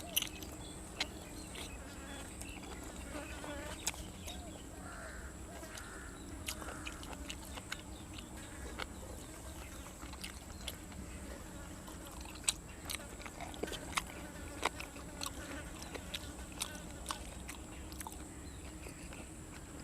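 Close-up eating of grilled squid and raw vegetables: irregular crisp bites and crunching clicks, scattered throughout, over a steady thin high whine and a low hum.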